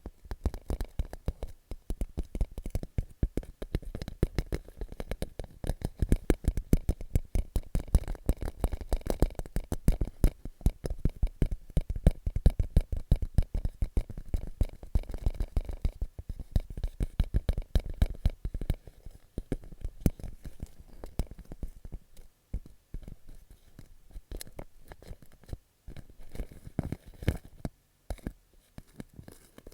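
Fingertips tapping rapidly on a clear plastic pouch, a dense run of small crackling taps that turn lighter and sparser after about 18 seconds.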